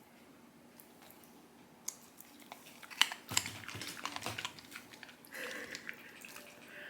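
A dog crunching a piece of raw carrot: a dense run of sharp, crisp bites that starts about three seconds in with the loudest crunch and then tails off into quieter chewing.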